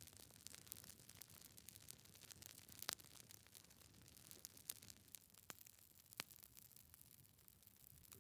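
Wood fire in a fireplace crackling softly, with irregular sharp pops over a low hiss; the loudest pop comes about three seconds in.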